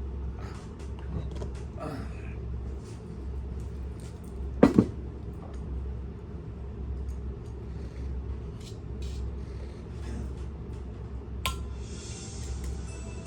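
Small clicks and scrapes of hand tools working on a motor bearing, with two loud knocks in quick succession about four and a half seconds in and a sharp click near the end, over a steady low hum.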